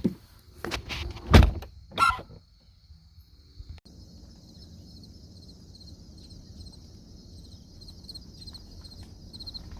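Tesla car door closing: a few clicks, then a heavy thunk about a second and a half in and a brief squeal from the frameless window glass as it seats against the seal. This squeak is a fault that the owner puts down to something out of alignment. A steady pulsing chorus of crickets follows.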